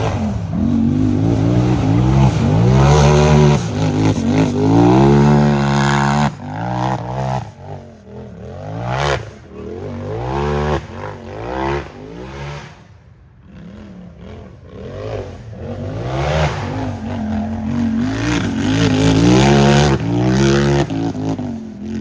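Unlimited-class race UTV engine revving hard, its pitch rising and falling with repeated throttle bursts. It drops to a lull a little after halfway, then builds back to full throttle near the end.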